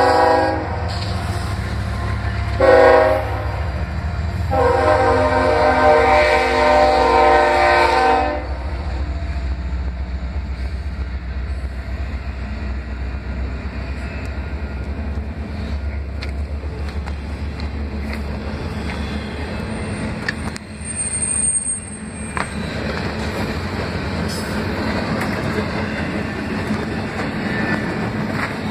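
Freight train's diesel locomotive horn sounding three blasts, two short and then one long of about four seconds, over the low rumble of the engine. The horn is followed by the steady rumble and clatter of intermodal well cars rolling past, with a brief wheel squeal about 21 seconds in.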